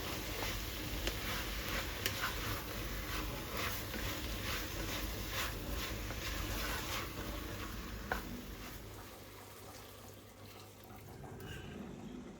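Tap water running into a sink with scattered light clinks, easing off about nine seconds in.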